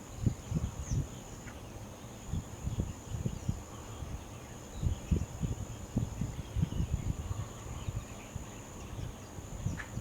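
Wetland ambience: a steady high-pitched insect trill runs throughout, under frequent irregular low rumbles of wind on the microphone. A few faint, short bird chirps are heard in the distance.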